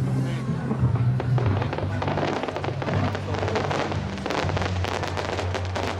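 Aerial fireworks going off in a dense volley of rapid crackles and pops, thickening about a second and a half in, over background music with sustained low notes.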